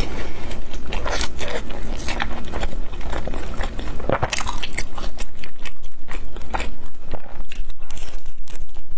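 Close-miked biting and chewing of pan-fried Chinese chive pockets: a run of short crunches as the fried wrapper and filling are bitten and chewed.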